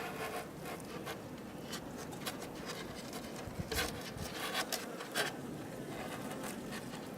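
Irregular scraping, rustling and a few sharp clicks as a beehive's top covering is handled and lifted off, the sharpest a little past halfway.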